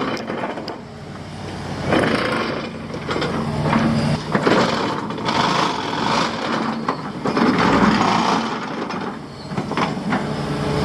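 Heavy construction machinery working the dirt: a steady engine note under a continuous mechanical clatter, with scattered knocks.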